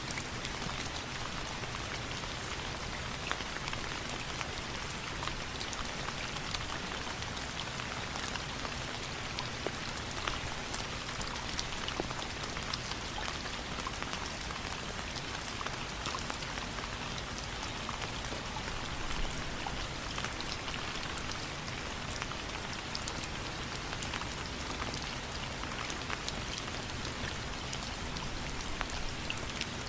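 Steady rain falling on a surface, a constant hiss scattered with many sharp little ticks of drops.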